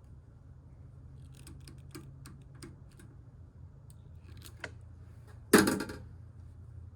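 A run of light clicks and ticks, then a single loud knock about two-thirds of the way through that rings out briefly, over a low steady hum.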